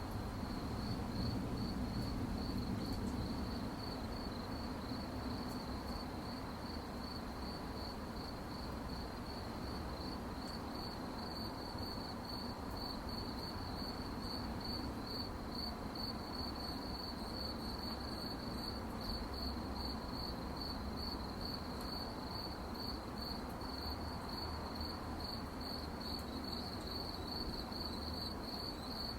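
Crickets chirping at night in a steady, evenly pulsed high trill over a low background rumble.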